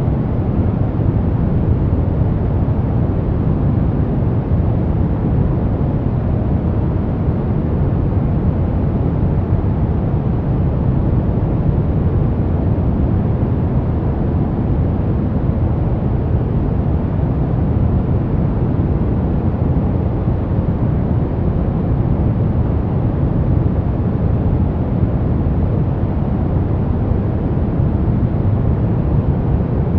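Continuous white-noise track for sleep and relaxation, steady and unchanging. It is weighted toward the low end, a deep rushing hiss with little treble.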